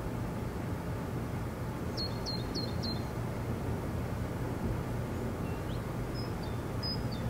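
Outdoor ambience: a steady low background noise with a small bird chirping, a run of four quick high chirps about two seconds in, then a short rising whistle and a few more high chirps near the end.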